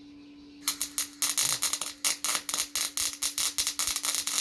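MIG welder arc struck about half a second in, then an irregular steady crackle over the machine's low hum; a smooth, even crackle that sounds really good, the sign of a well-set weld that is cooking sweet.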